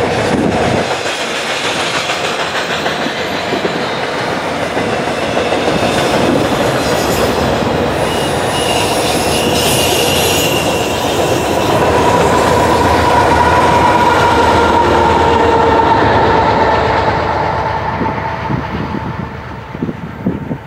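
Double-stack intermodal freight train rolling past: a steady rumble and clatter of wheels over the rails as the last cars and the rear distributed-power locomotive, a CP AC4400CW, go by, with a steady whine partway through. The sound fades near the end as the train pulls away.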